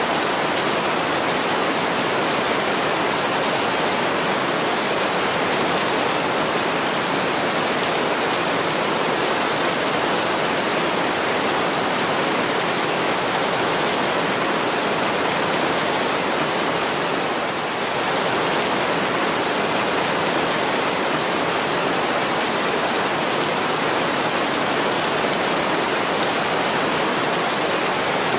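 Heavy rain pouring steadily on window glass: an even, unbroken hiss that dips slightly for a moment about two-thirds of the way through.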